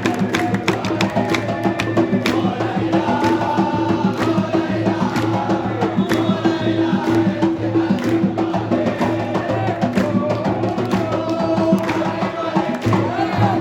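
A crowd of football-style supporters chanting together in song over a steady beat of drums.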